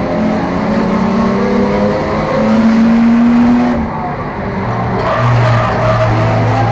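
Four- or six-cylinder enduro race car engine under hard throttle, its pitch climbing, then dropping sharply about four seconds in and holding lower before beginning to rise again.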